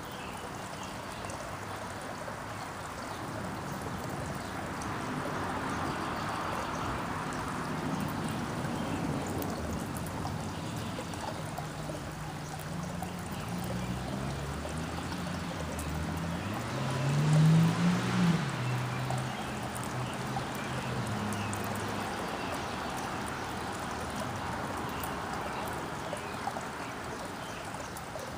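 Steady rushing, water-like noise, with a low engine hum that shifts pitch in steps and swells to its loudest about two-thirds of the way through before fading.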